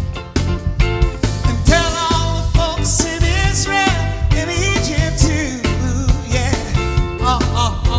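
A soul band playing an upbeat number: a steady bass and drum beat under a wavering lead melody.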